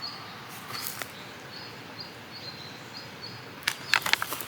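A small bird repeating a short, high, flat note about twice a second over a steady outdoor hiss. A few sharp clicks or rustles come near the end.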